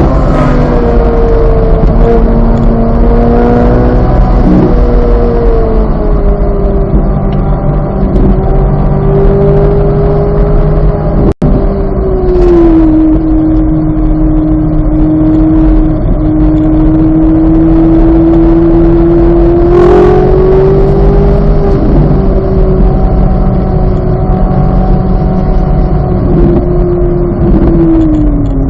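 2023 Chevrolet Corvette Z06's 5.5-litre flat-plane-crank V8 running hard on track, its engine note holding high and fairly steady with gliding falls in pitch about twelve seconds in and again near the end. The sound cuts out for an instant about eleven seconds in.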